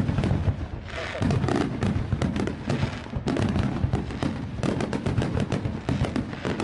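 Fireworks display going off in rapid succession: a dense barrage of booms and crackles with many bangs a second.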